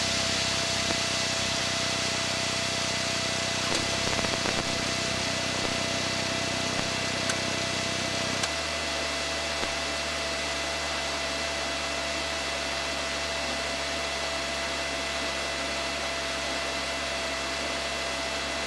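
Aircraft engine running steadily, heard inside the cockpit under a hiss of cabin noise, with a thin steady whine on top. The low engine note changes abruptly about eight and a half seconds in, as the power setting changes.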